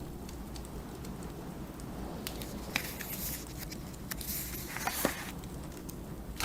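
A wood fire crackling, with scattered sharp pops, over the steady low rumble of snowstorm wind.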